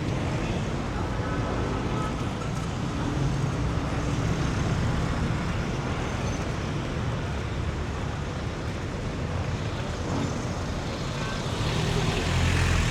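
Street traffic: the engines of passing vehicles running in a steady wash of road noise, with one vehicle passing close and louder near the end.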